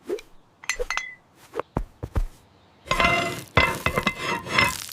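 Hammer knocks and clinking of hard roof tiles. A few separate sharp taps come in the first two seconds. From about three seconds in there are nearly two seconds of dense clattering with a ringing, glassy edge.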